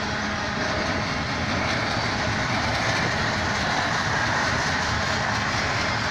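Double-stack intermodal container train rolling past, a steady noise of steel wheels on rail and cars going by.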